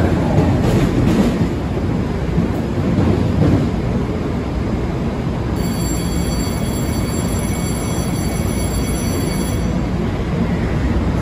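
Low, steady rumble of a Budd M3 electric train and underground station ambience as the train edges into the platform track. About halfway through, a steady high-pitched whine starts abruptly and cuts off about four seconds later.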